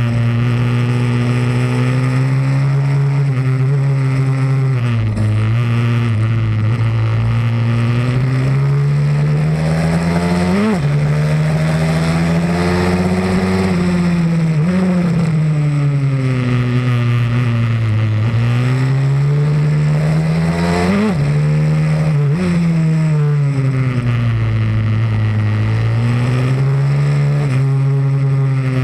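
Pit bike's single-cylinder four-stroke engine running hard around a track, its pitch repeatedly climbing under acceleration and falling off again, with a few sharp brief jumps in revs.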